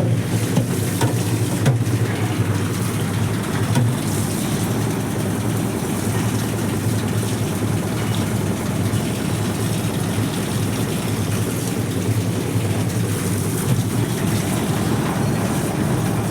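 Whirlpool washing machine running its spin-dry cycle: a steady motor hum and drum rumble, with a few faint clicks in the first couple of seconds.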